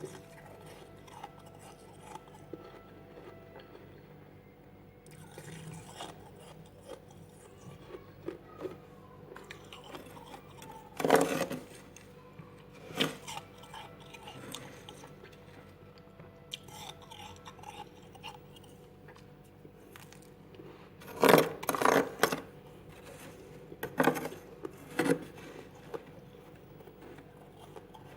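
Freezer frost being bitten and chewed: sharp, crunchy bites, a loud one about a third of the way in and a quick run of them in the last third, with softer scraping and crunching between.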